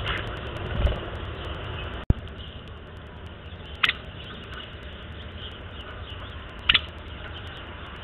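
Two short, sharp bird calls about three seconds apart, over a steady low outdoor rumble. A dull thump comes just under a second in, and a sharp click with a brief dropout about two seconds in.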